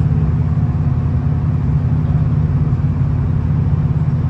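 V/Line VLocity diesel railcar running along the line: a loud, steady low rumble of engine and wheels on track.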